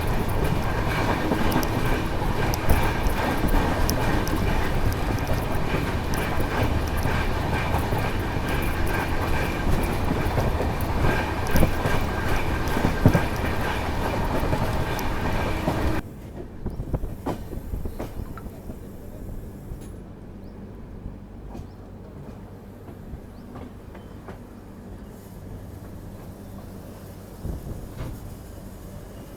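Passenger train running on the track: wheels clicking over rail joints under a steady rumble, with a faint high whine. About halfway through it cuts off suddenly to a much quieter low hum with scattered light clicks.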